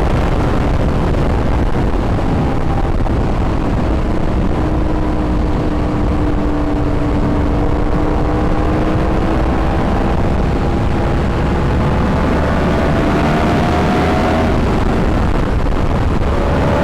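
Yamaha YZF-R1 sport motorcycle running under way, its engine note holding fairly steady and drifting slowly up in pitch, then dropping briefly near the end and climbing again. A steady rushing noise runs under it throughout.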